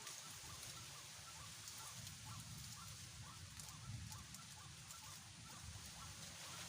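White-breasted waterhen (ruak-ruak) calling, a faint run of short repeated croaking notes, about two or three a second, over a low rumble.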